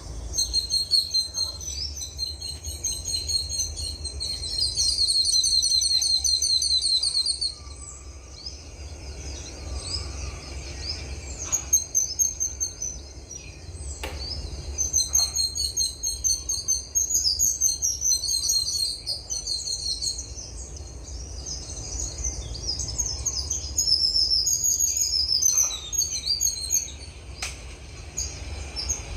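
Several small songbirds singing and chirping together in high-pitched rapid trills and twitters, with one long fast trill about five seconds in. A steady low rumble runs underneath.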